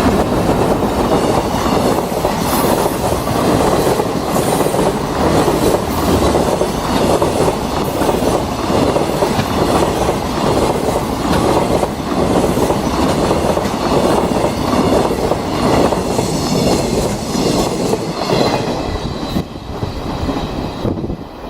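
Freight train hauled by a JR Freight EH500 electric locomotive rolling past close by, its wagon wheels clattering over rail joints in a steady rhythm. A thin, high wheel squeal rings over the rumble late on, and the noise drops away near the end as the train clears.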